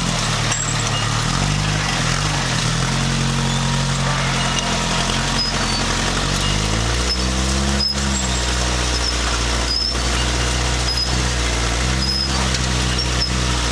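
Vehicle engine running under load, revving up and down several times, settling into a lower, steady drone about halfway through.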